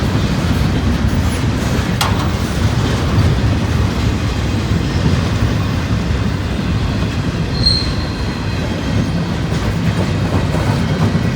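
Freight train rolling past, its wheels rumbling steadily on the rails, with a brief high-pitched wheel squeal a little past the middle.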